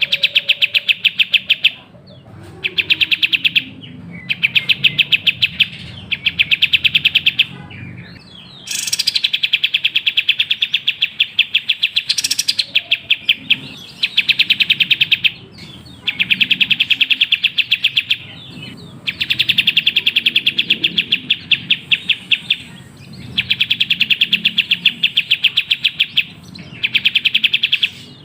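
Kapas tembak songbird singing a lure song: bursts of fast, evenly repeated high chattering notes, each lasting a couple of seconds, with short pauses between them.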